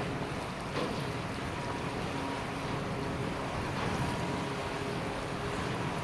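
Steady rushing of strong wind and sea at a ship berthing in a gale, with faint steady humming tones of ship machinery coming and going and a couple of soft knocks.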